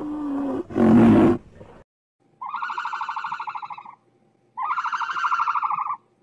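Animal calls. A loud, wavering call fades out in the first two seconds. After a short silence come two long, evenly pulsed, high-pitched calls of about a second and a half each, with a gap between them.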